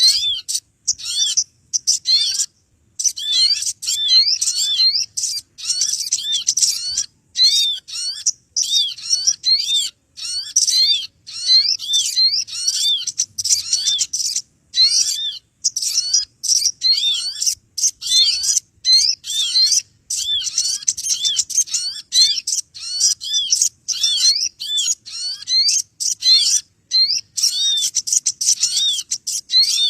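Bird-catcher's lure recording of small birds: a dense, continuous chatter of rapid high chirps and twitters from several birds at once, with only brief gaps.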